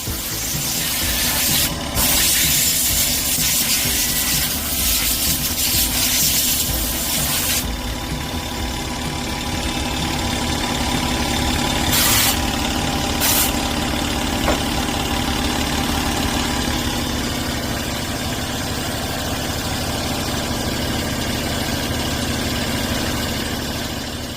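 An engine running steadily, with a loud rushing noise for several seconds near the start and two short bursts around the middle.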